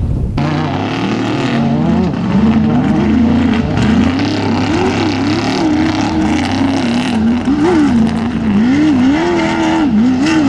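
Off-road race vehicle's engine revving hard, its pitch rising and falling again and again as the throttle is worked. It cuts in abruptly just after the start.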